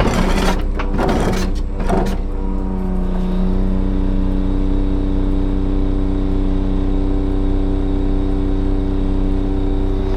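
Timber truck's diesel engine running at a steady speed. In the first two seconds there are a few short bursts of hiss.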